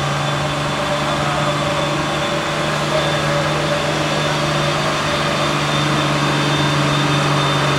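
Diesel engine of a Mitsubishi HD six-wheel truck running steadily at low revs in medium-low gear, with a constant hum.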